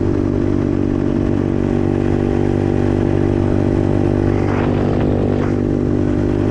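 125cc dirt bike's single-cylinder engine running at a steady speed.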